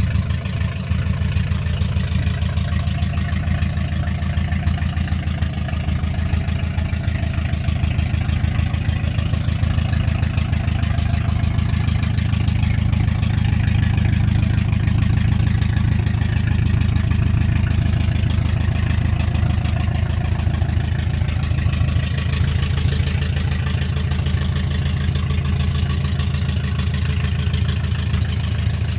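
1964 Chevy C-10 pickup's engine idling steadily, with a low, even exhaust pulse.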